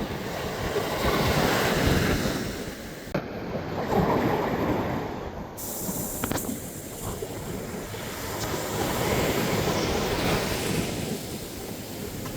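Sea surf breaking on a beach in slow swells, each wave rising and washing out over a few seconds, loudest about two and four seconds in. Two brief clicks fall about three and six seconds in.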